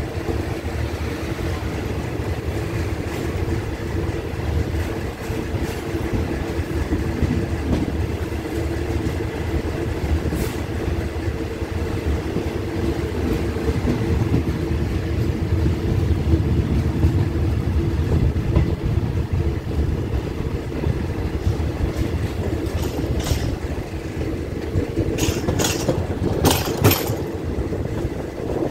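Passenger train running along the track, heard from an open carriage window: a steady rumble of wheels on rail, with a few sharp clacks near the end.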